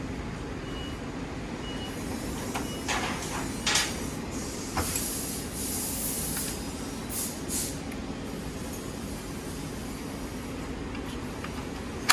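Hand tools clinking and a socket wrench on a long extension working at a buried 8mm bolt, a few sharp clicks and knocks followed by stretches of ratcheting, over a steady low shop hum.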